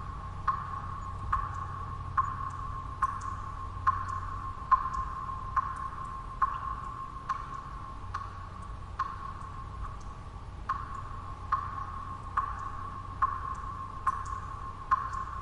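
Water drops falling one after another at an even pace, a little more than one a second, each a sharp plink that rings briefly. Underneath runs a steady low background noise.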